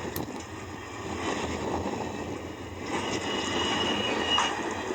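A passenger train rolling past on the tracks, a steady rumble from the wheels on the rails. About three seconds in, a thin high squeal lasts just over a second.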